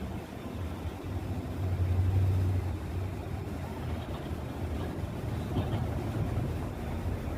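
Low, steady vehicle rumble that swells about two seconds in, then settles back.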